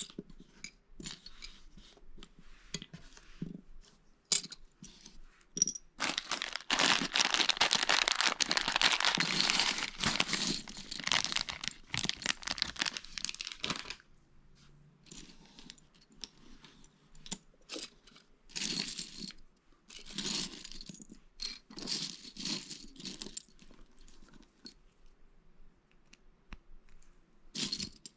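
Hands handling small Lego plastic pieces: scattered clicks and clatters, with a long stretch of dense rustling and rattling from about six to fourteen seconds in.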